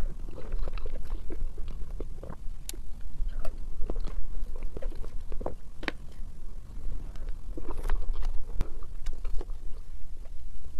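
Close-miked chewing and mouth sounds of a person eating soft, creamy mille crêpe cake off a spoon, with scattered sharp clicks, over a steady low rumble.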